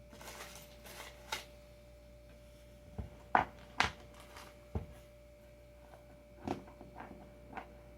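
Small hard parts and tools being handled and set down while someone searches for a screw: a brief rustle, then several sharp clicks and knocks, over a faint steady tone.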